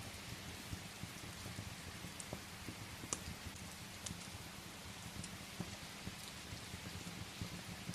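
Steady rain falling, with scattered sharp pops from crackling firewood in a fireplace, the loudest pop about three seconds in.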